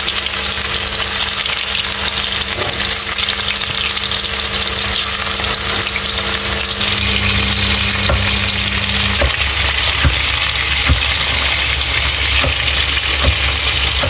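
Kofta meatballs deep-frying in hot cooking oil: a steady, dense sizzle, with small crackling pops scattered through the second half.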